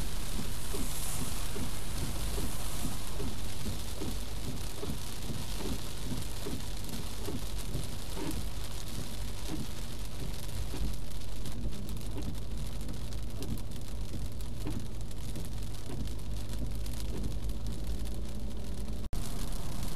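Heavy rain pattering on a moving car, heard from inside the cabin through a windscreen-mounted dash cam, over a steady low road and engine rumble. The sound drops out for an instant near the end.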